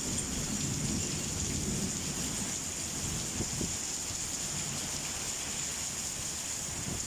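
Rain pouring down steadily in a summer thunderstorm, with a low rumble of thunder dying away over the first couple of seconds.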